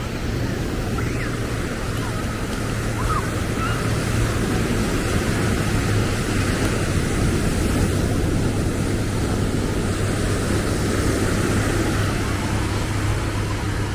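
Steady outdoor wash of surf and passing road traffic, with a low engine hum underneath and faint voices.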